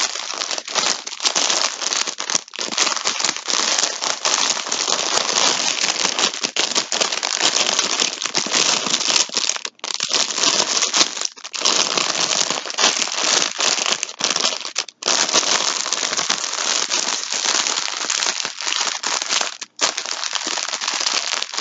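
Plastic bag crinkling and rustling steadily as yarn skeins are handled in their packaging, broken by a few brief pauses.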